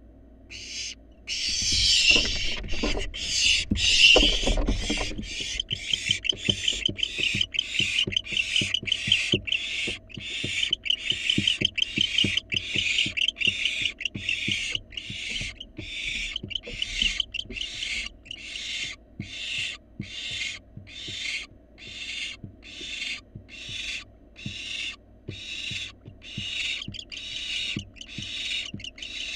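Barn owl fledglings giving raspy, hissing begging calls, repeated one to two times a second without a break. A louder, busier burst of calls with low thumps comes in the first few seconds.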